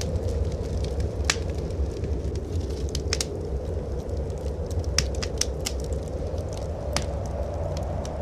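Wood fire crackling in a fireplace, with a handful of sharp pops scattered through, over a steady low rumble.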